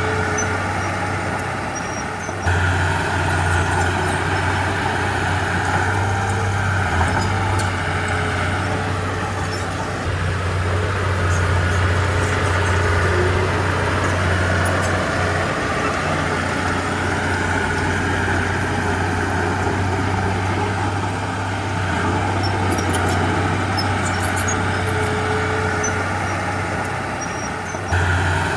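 Heavy diesel engine of earthmoving machinery running steadily with a deep drone, rising and easing a little under changing load. The sound steps up abruptly about two and a half seconds in and again near the end.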